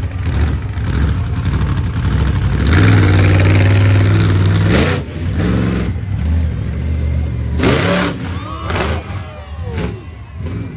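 Vehicle engine running and revving in several bursts, its pitch rising on each rev, loudest in a held rev from about 3 to 5 seconds in.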